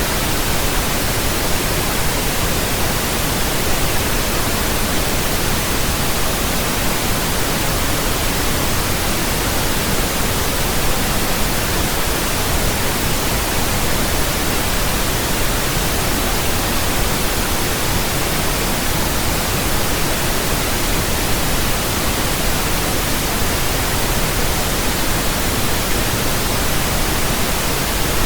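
Steady pink noise: an even, unchanging hiss with a deeper rumble than white noise, with no events or changes.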